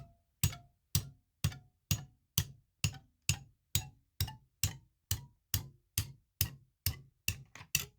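Steady hammer taps on a rock being split open along its crack, about two strikes a second. Each is a sharp knock with a brief ring. Two quick taps come near the end, then the tapping stops.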